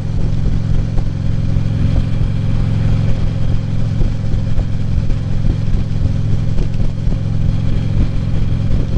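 Vehicle engine running steadily at cruising speed, with road and wind noise.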